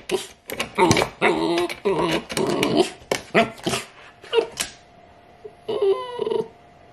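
Siberian husky puppy vocalizing: a rapid run of short, pitched yips and whines for about the first four seconds, then a few scattered calls that trail off.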